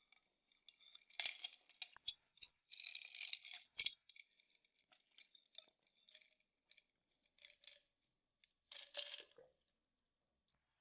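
Faint close-up eating sounds: a person chewing lupini beans that are a little crunchy, with irregular crunches and small clicks, loudest in the first few seconds and again near the end.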